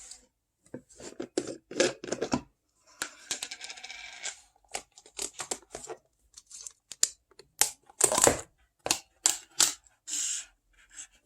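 Close-miked ASMR handling sounds: a quick series of sharp clicks and taps, with a stretch of crinkly rustling about three seconds in.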